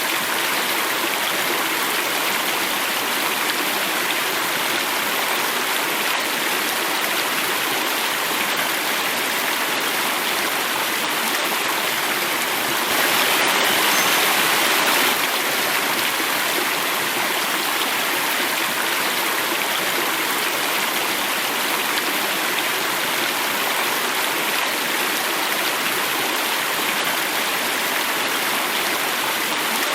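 Water running and falling in a stream, a steady rushing noise that swells briefly louder and brighter about halfway through.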